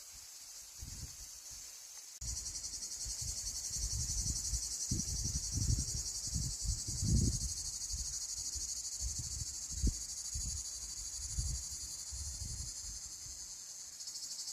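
Insects, most likely crickets, chirring steadily in a fast, even pulse, stepping up louder about two seconds in. Irregular low rumbles and thumps sound underneath.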